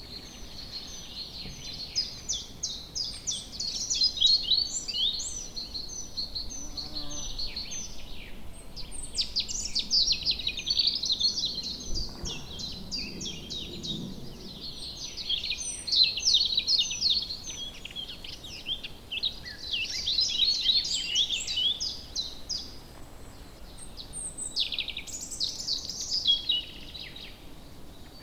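Woodland birdsong chorus: several birds singing and chirping at once, with rapid trills and short high notes over a faint background hiss.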